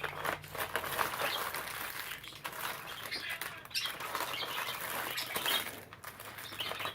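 Pet budgerigars chattering and chirping, a busy run of warbles and chirps.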